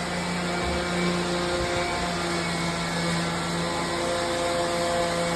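Electric palm sander running steadily against log walls, giving an even motor hum with a steady low tone.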